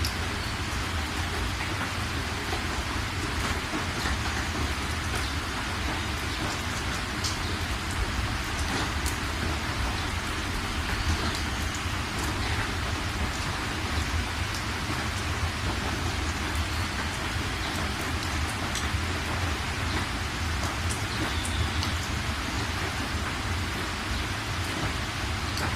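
Steady rain falling, with scattered individual drops ticking through the even hiss and a steady low rumble underneath.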